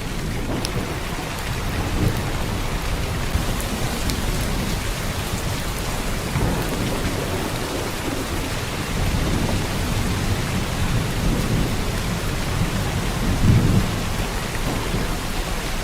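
Heavy downpour of rain falling steadily, with a low rumble of thunder swelling and fading underneath, loudest a couple of seconds before the end.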